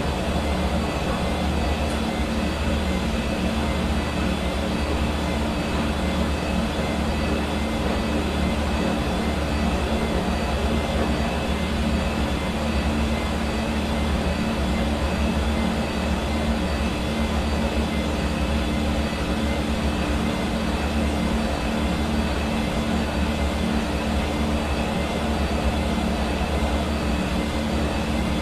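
Hair dryer running steadily: a constant rush of air over the hum of its motor, with a few fixed whining tones above it.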